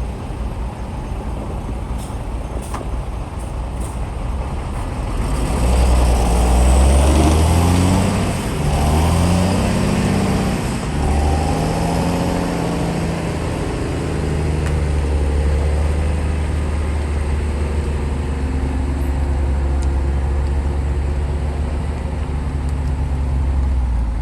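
Heavy diesel engine of earthmoving machinery running, revving up and down with its pitch rising and falling from about six seconds in, then settling back to a steady low drone.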